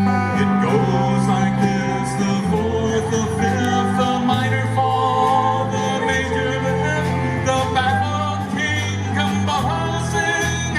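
Live rock band playing a song: a bass line moving every second or two under guitars, drums with steady cymbal strikes, and a singer's voice.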